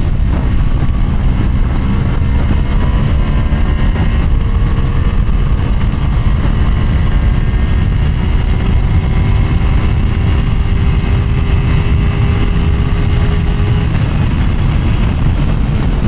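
Motorcycle cruising at highway speed: a steady heavy rush of wind and road noise over the engine's drone, whose pitch rises slowly and fades out near the end.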